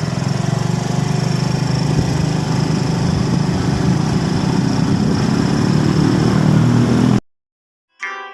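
A small engine running steadily, cut off abruptly about seven seconds in; plucked guitar music starts near the end.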